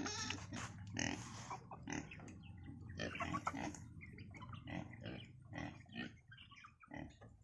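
Farm animals making short, irregular calls and feeding noises over a low steady hum.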